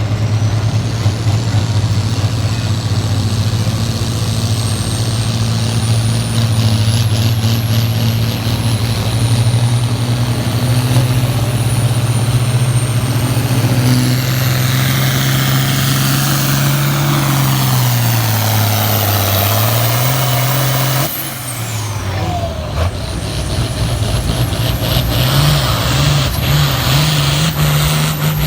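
Turbocharged diesel engine of a farm stock pulling tractor running hard, with a high turbo whistle that climbs. The engine note sags, then about two-thirds through the throttle is cut and the whistle slides down as the engine drops back. It settles to a steadier note near the end.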